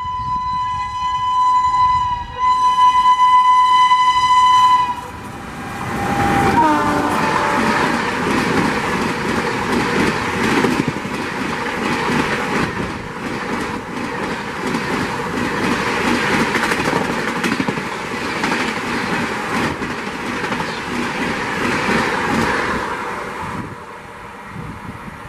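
WAP-7 electric locomotive sounding its horn in two long blasts, then a brief note that falls in pitch as the locomotive goes by. The rush and rhythmic wheel clatter of the passenger coaches passing at speed follows, dropping away near the end.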